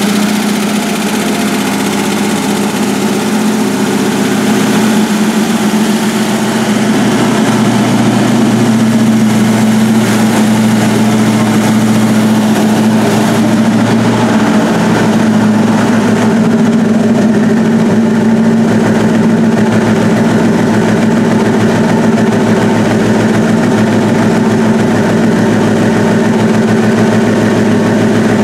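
Shelby GT500 'Eleanor' Mustang's Ford V8 idling steadily, a loud, even low engine note.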